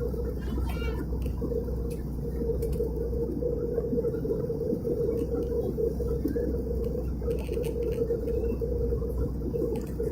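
Steady cabin noise of an Airbus A320 airliner in flight: a constant low rumble of engines and airflow with an even drone over it.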